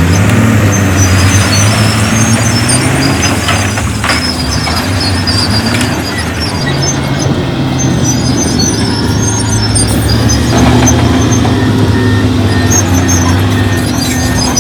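Heavy diesel earthmoving machinery running under load, the engine pitch rising and falling, with a couple of short clanks around 4 and 10 seconds in.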